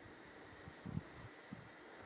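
Faint wind noise on the microphone, with a couple of soft low buffets about one second in, over a faint steady high-pitched tone.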